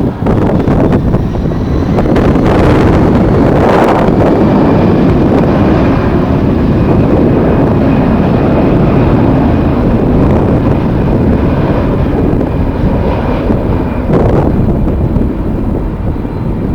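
Jet airliner engines running with a steady rumble and a faint high whine, mixed with strong wind buffeting the microphone in gusts.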